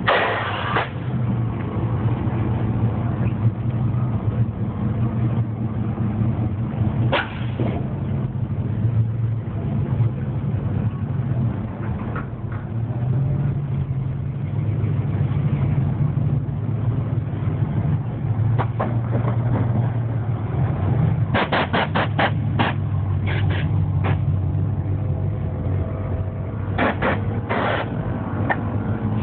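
Engines of several cars and pickup trucks running as they roll slowly past one after another, a steady low rumble, with a quick run of sharp clicks about two-thirds of the way through.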